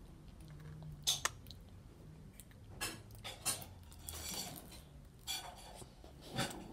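Eating a McDonald's apple pie: bites and chewing of the pastry crust close to the mouth, heard as a string of short, sharp crackles about a second apart with softer mouth noises between.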